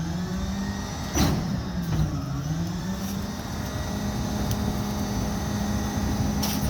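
Mack Granite rear-loader garbage truck's diesel engine revving up, dipping, then holding steady at raised revs. A sharp clank about a second in and a short burst of noise near the end.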